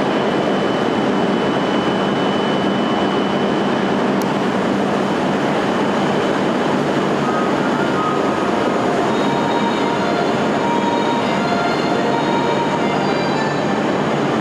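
E6 series Komachi Shinkansen pulling out of the station: steady, loud train running noise, with a few brief high squeals in the second half.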